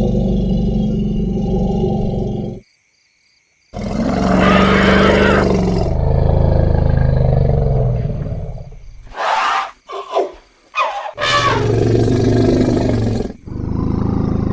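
Elephants calling: low rumbling groans, then after a brief cut a loud drawn-out call, and a quick run of short, high trumpets about nine to eleven seconds in, followed by more calls.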